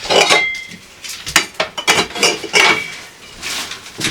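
Dishes, jars and containers knocking and clinking as they are handled and set down. It is an irregular string of sharp knocks, a few of which ring briefly like glass.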